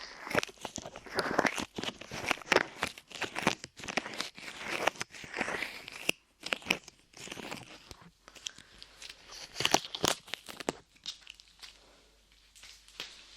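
Light modelling clay squeezed, pressed and pulled against a microphone's ear, making close-up sticky crackling sounds. The crackles are dense most of the way through and thin out to a few small clicks near the end.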